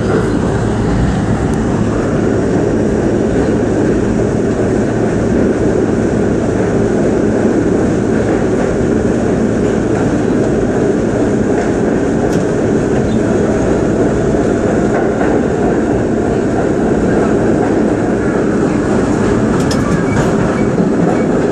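R32 subway train running through the tunnel, heard from inside the front car: a steady, loud rumble of wheels on rail and running gear, with a few sharp clicks over rail joints.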